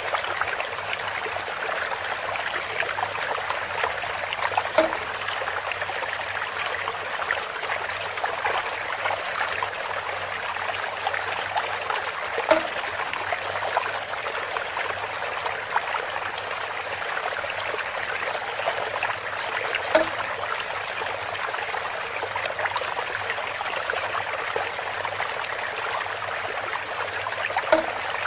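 Bamboo water fountain: water trickling and pouring steadily from a bamboo spout, with a short hollow knock four times, about every seven and a half seconds.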